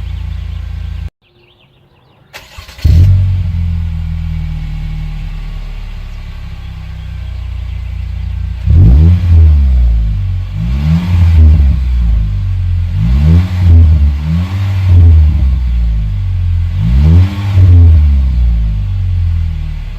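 2015 Chevrolet Malibu's four-cylinder engine through a custom Y-pipe and dual Magnaflow mufflers. It idles, cuts out about a second in, restarts with a loud flare near three seconds, then idles again. From about nine seconds it is revved in a series of blips before settling back to idle.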